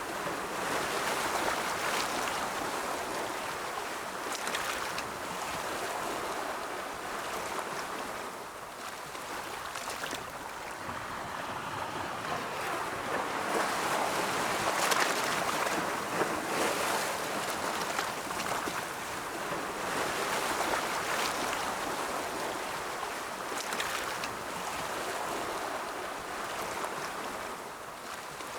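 Ocean waves rolling in and breaking in a continuous wash of surf, swelling and easing every few seconds, with the odd sharper splash.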